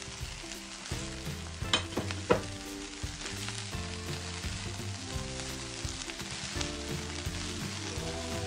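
Fried rice sizzling in a nonstick wok while a plastic spatula stirs and tosses it. Twice, about two seconds in, the spatula knocks sharply against the pan.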